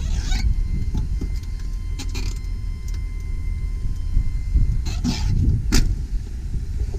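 Truck engine idling with a steady low rumble, with a few brief scuffing and handling noises at the start, about two seconds in and about five seconds in.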